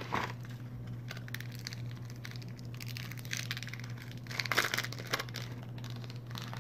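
Close-up chewing and mouth sounds from a person eating: about six irregular clusters of soft clicks and crackles, over a steady low hum.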